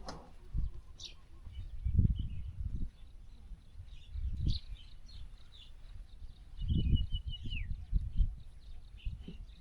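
Birds calling, with short high chirps and, about seven seconds in, a trilled call that drops in pitch at its end. Several louder bursts of low rumble come and go underneath.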